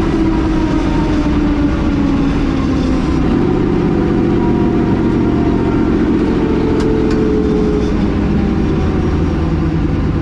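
Loud race-truck engines running. One engine note slides slowly down in pitch, then a steadier, stronger engine note comes in about three seconds in and holds for several seconds.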